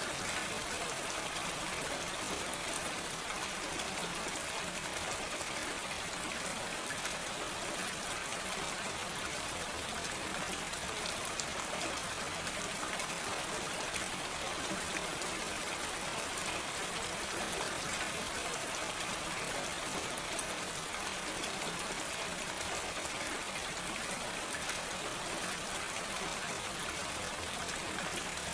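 Steady gentle rain without thunder, a continuous even hiss of falling rain with fine drop patter.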